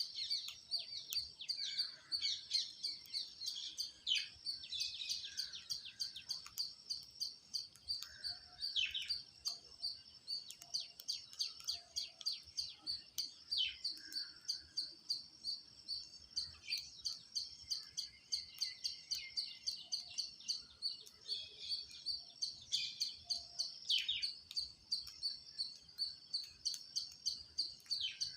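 Birds chirping: a rapid, steady run of high-pitched chirps, about three to four a second, with an occasional short call that sweeps downward.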